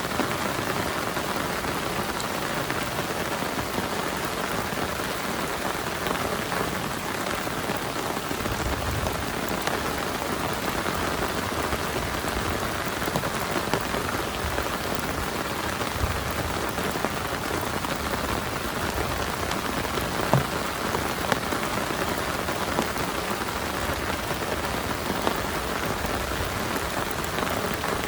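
Heavy rain falling steadily, with a few sharper drop hits now and then.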